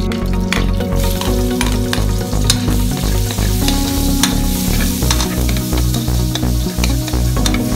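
Minced garlic and onion sizzling in hot oil in an aluminium wok, with a metal spoon scraping and clicking against the pan as they are stirred.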